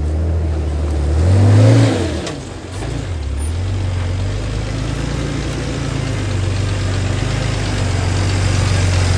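Off-road 4WD vehicle's engine working slowly over the track. It revs up briefly about a second and a half in, eases off, then runs on at a steady pull.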